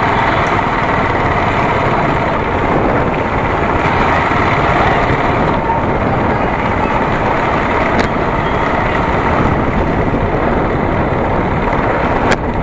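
Steady rush of motorcycle riding noise, engine and road noise mixed together, with a sharp click near the end.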